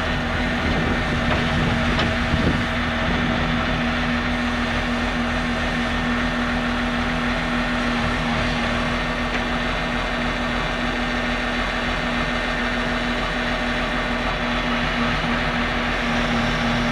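Engine running steadily at an unchanging speed, with a constant hum.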